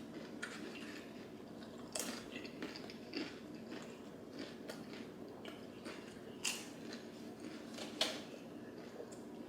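Mouth sounds of eating crunchy taco roll-ups: quiet chewing with scattered sharp bites and crunches, a few of them louder, the loudest near the end.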